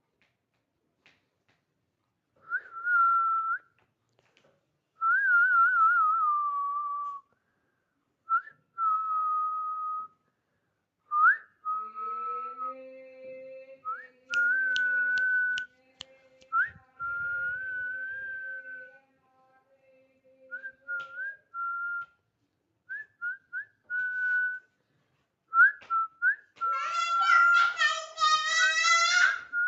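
A string of short, clear whistled notes at much the same pitch, one of them warbling quickly, with a lower steady tone held beneath for several seconds midway and a few sharp clicks. Near the end a harsher, buzzier call sounds together with the whistling.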